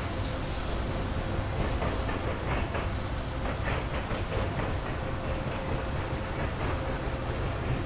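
Freight diesel locomotives rolling slowly past with a steady low rumble and a thin steady whine, and a scatter of clicks from the wheels over rail joints in the middle.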